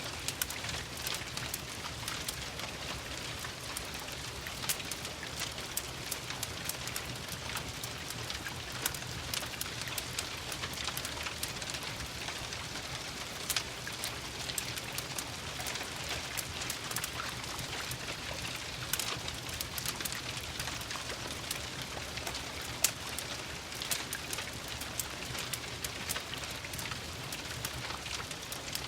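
Steady rain falling, mixed with the crackle of a wood fire: an even hiss with many short sharp clicks and pops, one louder pop late on.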